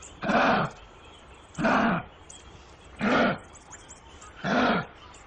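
An animal calling in a steady series: four loud calls about one and a half seconds apart, each lasting about half a second, with the pitch rising and falling within each call.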